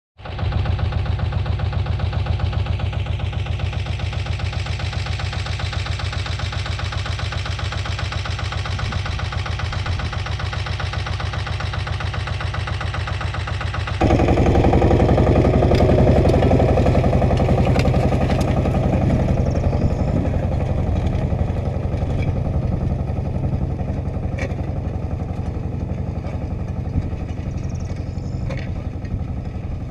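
Agria 8980 articulated tractor's engine running steadily. About 14 s in the sound cuts abruptly to a louder, fuller engine note, with scattered clicks and rattles on top.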